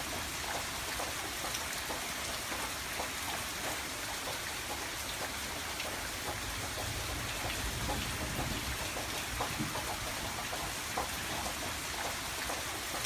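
Steady rain falling on a window pane, with many separate drops tapping over a constant hiss.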